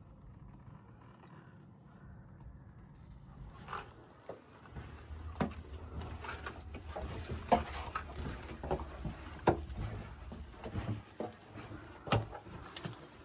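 Street sounds: a steady low rumble sets in about five seconds in and fades after about ten, with scattered sharp knocks and clicks over it, the loudest about halfway through and near the end.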